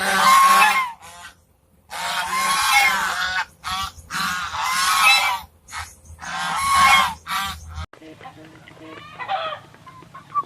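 Geese honking in four loud bursts of harsh, repeated calls; about eight seconds in it gives way to chickens clucking more quietly.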